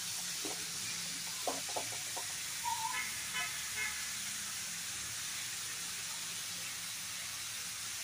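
Mixed vegetables (potato, pumpkin and others) frying in hot oil in a kadai, a steady sizzle, with a few light clicks of the spatula against the pan in the first couple of seconds.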